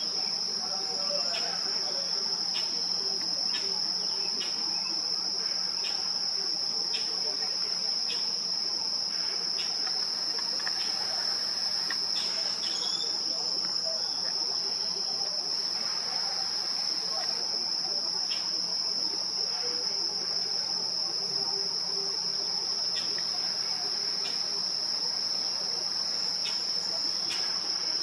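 Insects trilling: one steady, unbroken high-pitched tone that never pauses, with a few faint short ticks over it.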